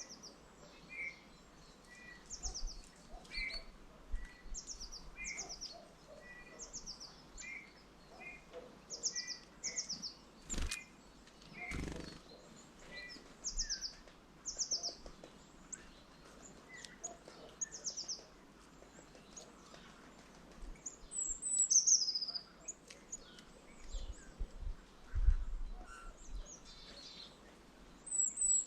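Small birds calling at a feeder: short high chirps repeat about once a second, with two sharp knocks near the middle and louder falling calls near the end.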